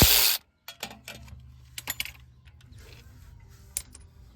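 A loud burst of noise in the first half second that cuts off abruptly, then scattered light metallic clicks and clinks of hand tools and parts as the starter motor is worked out of the engine bay.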